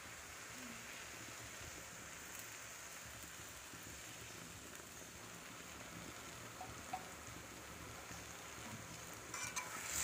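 Thick jackfruit halwa faintly sizzling in ghee as it is stirred in a large uruli pan, with a light tick about seven seconds in and a few louder stirring sounds near the end.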